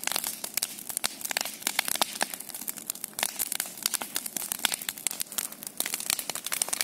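Large bonfire crackling: a dense, irregular run of sharp pops and cracks.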